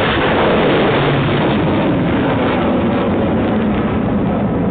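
Pinaka Mk-II guided rocket launching: the loud, steady roar of its solid-fuel rocket motor, starting abruptly.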